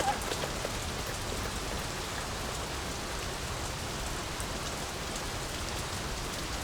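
Steady heavy rain falling, an even hiss with faint scattered drop patters.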